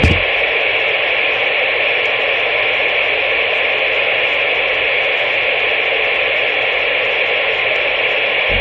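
CB radio receiver putting out a steady, loud hiss of static on the channel, with the narrow, tinny band of a radio speaker.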